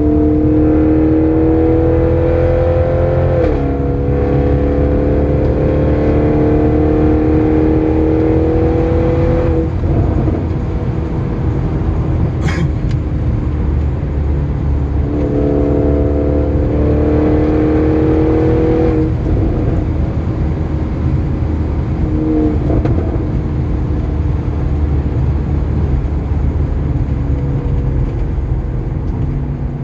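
Audi RS6 engine and Akrapovic exhaust under hard acceleration: the note climbs, drops at an upshift about three seconds in, and climbs again before the driver lifts off; it pulls hard a second time in the middle and blips briefly near the end, over a steady low road rumble.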